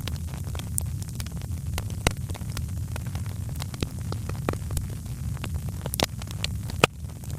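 Wood fire crackling in a fireplace: irregular sharp pops and snaps over a steady low rumble, with the loudest pop shortly before the end.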